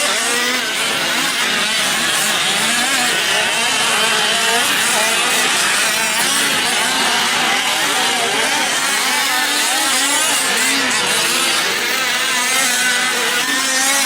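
Fifth-scale RC off-road trucks' small two-stroke petrol engines racing together, several at once, their pitches rising and falling as they rev up and back off.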